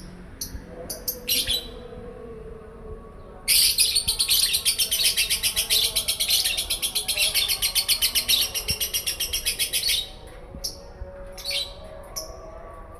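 Lovebird singing: a few short high chirps, then about three and a half seconds in a fast, evenly pulsed high trill that runs on for about six seconds before it breaks back into short chirps. The long trill is the 'konslet' song the bird is learning.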